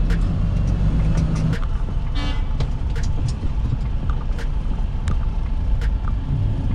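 A truck's engine running while driving, with frequent sharp rattles and knocks, and one short horn-like toot about two seconds in.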